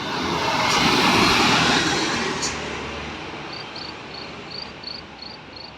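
A vehicle passing, a rushing noise that swells about a second in and fades away over a few seconds. Near the end a cricket chirps steadily, about three to four chirps a second.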